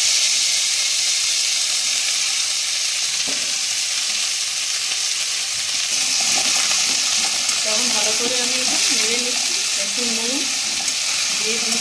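Freshly washed water lily stems sizzling steadily in hot mustard oil in a kadai, a loud even hiss. Near the end they are stirred with a metal spatula.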